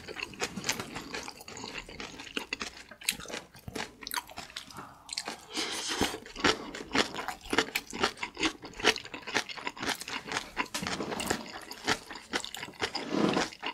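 Close-miked wet chewing of kimchi-wrapped instant noodles: crisp crunches of fermented napa cabbage leaf mixed with many small sticky mouth clicks.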